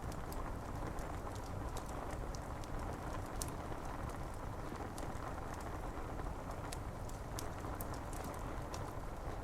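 Rain pattering steadily on window glass, with irregular sharp ticks and crackles scattered through it, as from a wood fire burning.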